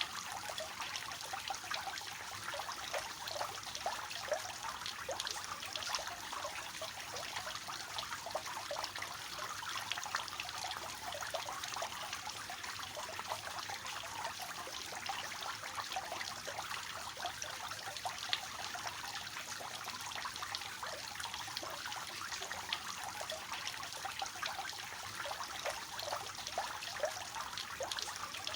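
Water falling steadily from a three-tiered cascade fountain, a continuous trickling and splashing into the basins below.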